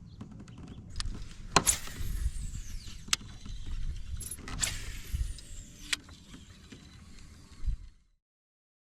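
Two casts with a fishing reel: each time a sharp click is followed by a whine that falls in pitch as the spool spins down. Scattered knocks sit over a low rumble, and the sound cuts off abruptly near the end.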